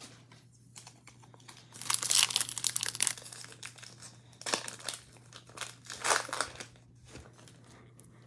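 Foil trading card pack wrapper crinkling and being torn open, in a few crackly bursts, the loudest about two seconds in.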